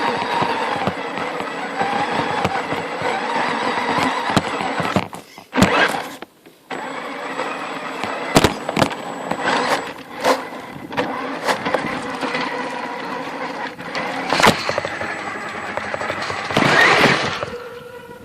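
Radio-controlled Tamiya CC01 truck's electric drivetrain whining, its pitch rising and falling with the throttle, with sharp knocks scattered throughout as the truck bumps over the obstacles.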